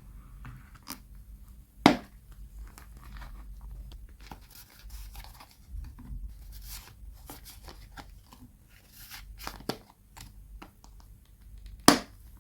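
Paper and washi tape handled at close range: scratchy rustling and tearing strokes, with a sharp click or tap about two seconds in, a smaller one later and a loud one near the end.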